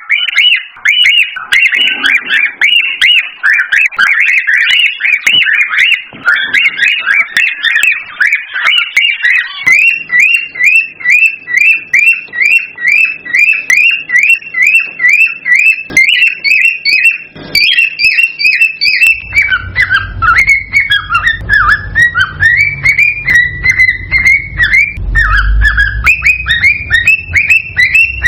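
Cockatiel calling in a rapid run of short, repeated whistled chirps, about three a second, the breeding-season chatter used to stimulate pairs to mate. A low rumble joins about two-thirds of the way through.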